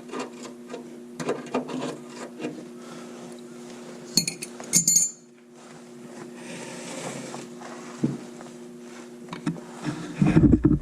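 Metal tools clinking and knocking while the oil is being drained from a pickup's oil pan, with two bright metallic clinks a little after four seconds in, over a steady low hum. A burst of rumbling handling noise comes near the end.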